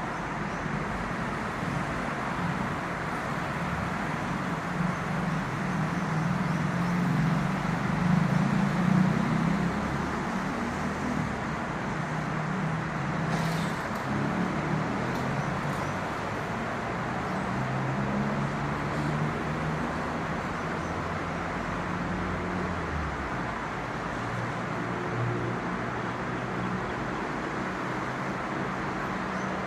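Boeing 717 jet airliner on approach, its two rear-mounted Rolls-Royce BR715 turbofans giving a steady, deep rumble. The rumble swells to its loudest about a third of the way in, then eases off to an even level.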